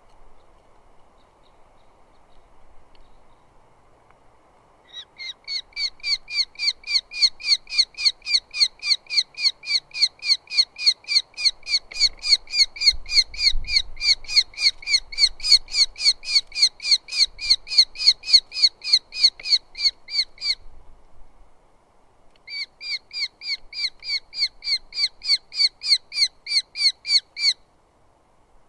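Eurasian hobby calling a long, rapid series of repeated 'kew' notes, about three a second; the calling breaks off for a second or two and then resumes for a shorter run.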